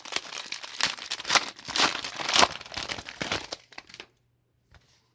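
Plastic booster-pack wrapper crinkling as it is torn open and handled, a dense crackle that stops about four seconds in, leaving a few faint ticks.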